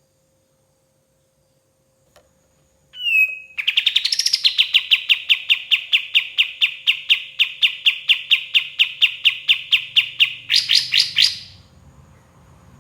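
Kapas tembak bulbul singing: after a few gliding opening notes it launches into a long, loud run of rapidly repeated notes, about six a second. It ends with a quicker, higher flourish before breaking off.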